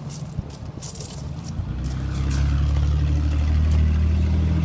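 A car engine running close by: a low, steady hum that swells up about two seconds in and holds at its loudest to the end.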